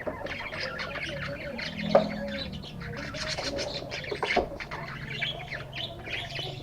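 Pet parakeets chirping and squawking in quick, repeated calls, with a sharp knock about two seconds in.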